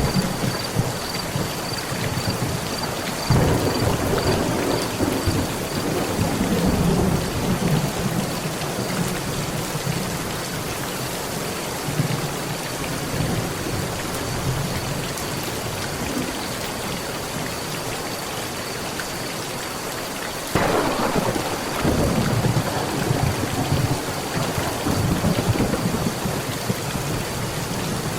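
Heavy rain falling steadily on a metal roof, with two rolls of thunder: one swelling about three seconds in and fading over several seconds, the other breaking suddenly about twenty seconds in and rumbling on to the end.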